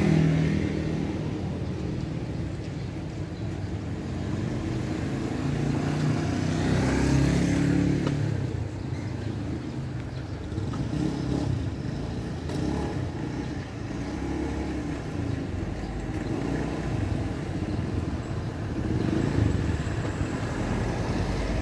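A motor vehicle's engine rumble that rises and falls, swelling about seven seconds in and again near the end.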